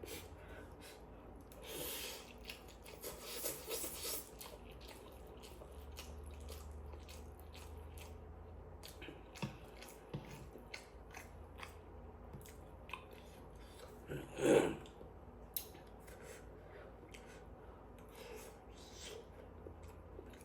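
A person chewing spicy noodles, with many small, scattered mouth clicks. There are louder noises about two to four seconds in and again near fifteen seconds.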